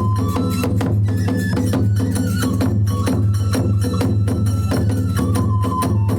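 Kagura hayashi music: fast, even drum strokes and clashing hand cymbals under a bamboo flute melody held on long notes.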